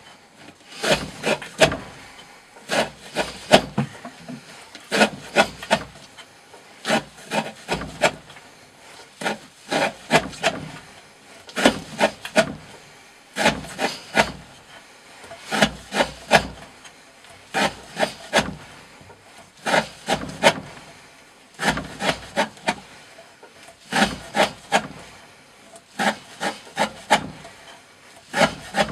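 A knife blade slicing repeatedly through thick 20 mm rope, each cut a quick cluster of scraping, fibre-tearing strokes, about one cut every two seconds.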